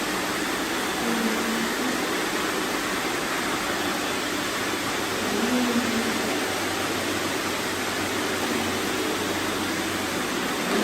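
Many robot vacuums running at once: a steady, even hum of their suction motors and brushes.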